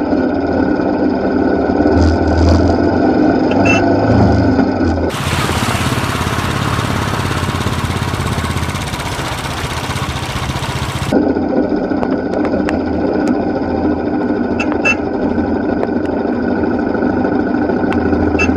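Royal Enfield motorcycle engine running steadily under way. About five seconds in, a loud even hiss covers it for some six seconds and then cuts off suddenly.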